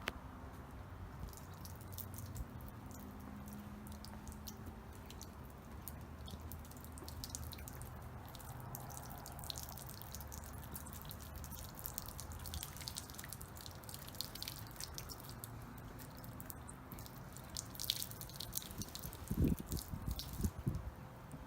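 Hot water dripping and trickling off a plastic car bumper as it is warmed to soften a dent, with scattered ticks of drops. A few dull thumps near the end.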